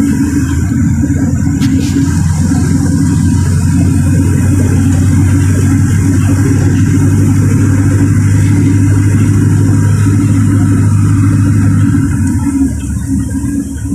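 LiAZ-4292 city bus's diesel engine running steadily under way, with a low drone, then easing off about twelve seconds in.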